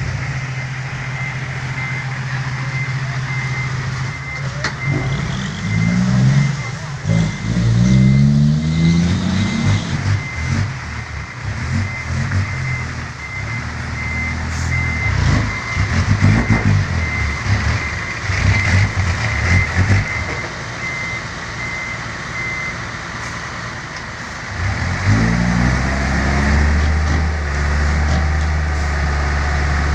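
Six-wheel dump truck's engine idling, then revving up and dropping back several times, with a reversing beeper giving a steady run of short beeps that stops about three-quarters of the way through.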